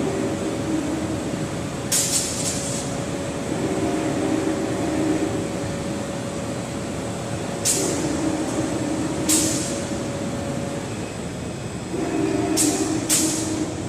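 Automatic screen washout booth running: a steady rush of water spray, with a motor hum that comes and goes about every four seconds and short sharp hisses several times.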